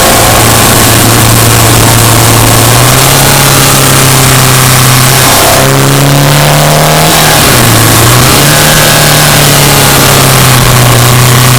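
Subaru Impreza Sport's flat-four engine running while driving, its pitch rising and falling several times as the throttle changes, with a brief drop about halfway through and another a couple of seconds later.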